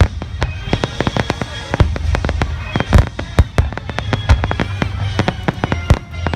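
Fireworks display: aerial shells bursting in a rapid, overlapping string of bangs, several a second, with the loudest cracks about a second apart.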